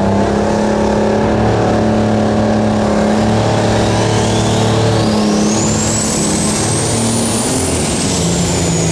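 Unlimited super stock pulling tractor's turbocharged diesel engine running loud and steady, with a high turbo whine that rises through the second half and then falls away near the end.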